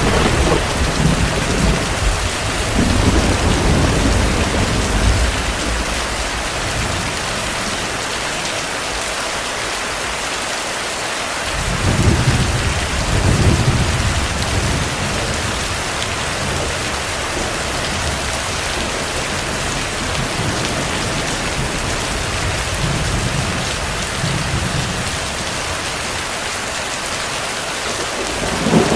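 Steady heavy rain with rolling thunder. Low rumbles swell during the first few seconds, again about twelve seconds in, more faintly a little past twenty seconds, and once more right at the end.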